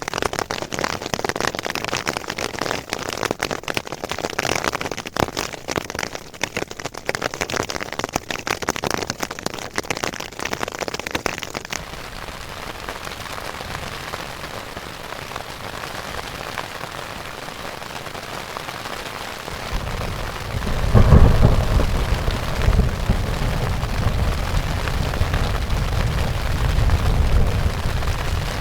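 Heavy rain pattering hard, easing to a steadier hiss after about twelve seconds. About twenty seconds in, a loud crack of thunder breaks and rolls on as a low rumble under the rain.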